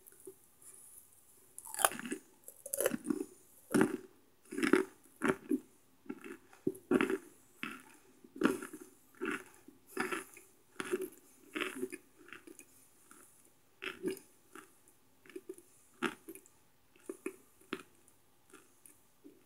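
A person chewing microwaved cornstarch chunks: a run of crisp crunches, about one to two a second, starting about two seconds in and growing softer and sparser as the mouthful is chewed down.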